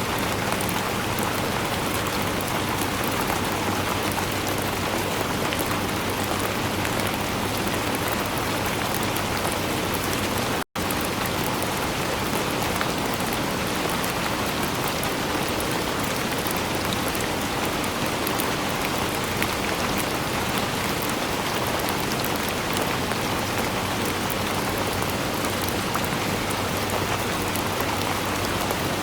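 Steady, dense rainfall, an even hiss at a constant level. About ten seconds in it cuts out for a split second, then carries on unchanged.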